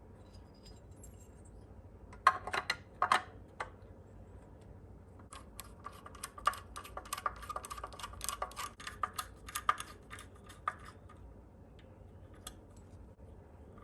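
Small parts being handled during model assembly: a few sharp clicks and taps about two seconds in, then a quick run of light clicking for about five seconds, and one last click near the end.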